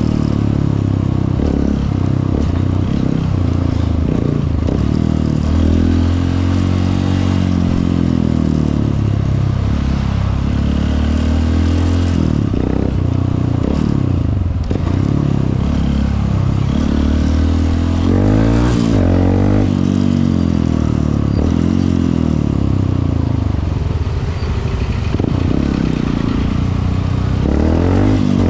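Honda CRF150L's single-cylinder four-stroke engine running on the move, its pitch rising and falling again and again as it accelerates and shifts gears. A steady rushing noise of wind and road runs underneath.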